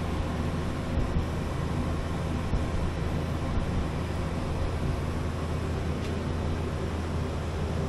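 Steady low mechanical hum of a running motor or machine over an even noise, unchanging throughout, with a few faint ticks.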